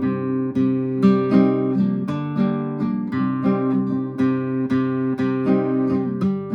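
Cordoba F7 nylon-string classical guitar strummed with the thumb, a steady run of chords that ring on between strums.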